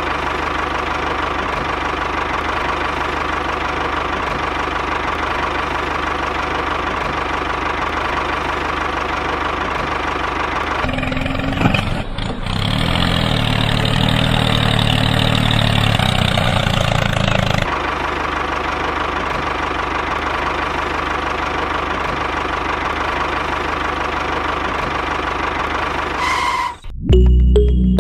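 Small engine running steadily, growing louder and deeper for about six seconds in the middle before settling back.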